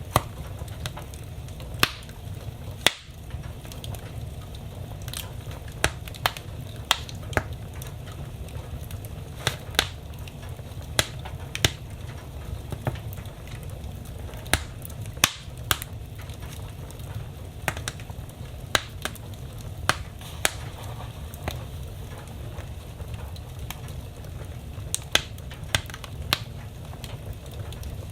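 Wood fire burning in a fireplace: a steady low rumble of flames with sharp, irregular crackles and pops of the burning logs.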